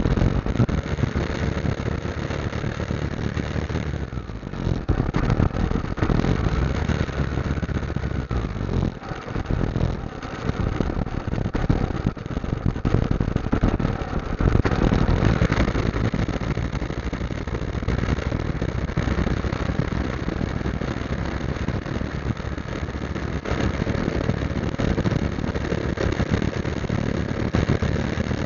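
Motorcycle engine running as the bike rides along: a steady, continuous drone mixed with rushing noise, with no clear changes.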